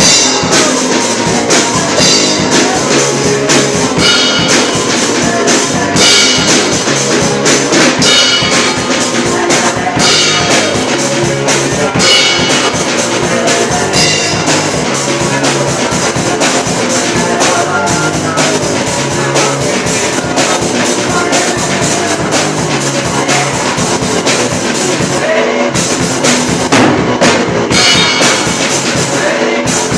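A drum kit and guitar playing rock music together at a band rehearsal, with a steady beat and regular cymbal crashes.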